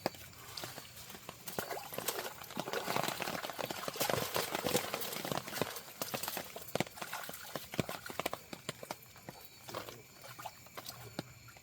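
Irregular wet slaps, knocks and splashing, strongest between about two and six seconds in, as a channel catfish is handled and swapped in and out of the keep basket.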